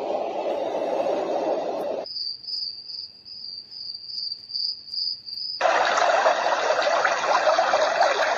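Dreamegg Pocket Sleep 1 white noise machine switching between its sound programmes. A deep, even rushing noise cuts off about two seconds in and is replaced by a recorded cricket chirp, a high pulsing trill. Just over five seconds in, that gives way abruptly to a brighter, hissier white noise.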